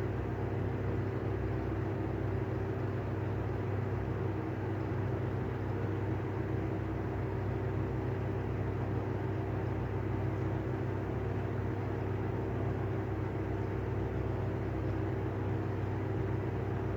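Airflow exhaust fan running steadily with bad bearings: a constant low hum with a few steady higher tones over a rushing noise.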